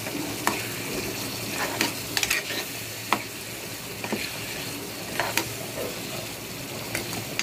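Mutton pickle with its masala frying in oil in an aluminium pot, sizzling steadily while a steel spoon stirs it as it is roasted. Sharp clinks of the spoon against the pot come several times.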